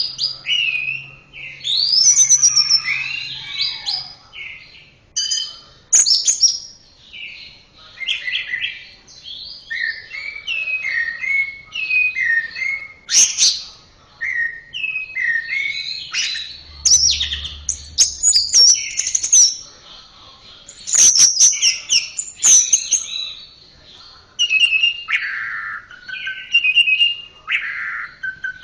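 Orange-headed thrush singing: a continuous run of short, varied whistled phrases, rising and falling, mixed with sharp clicking notes, with only brief pauses between them.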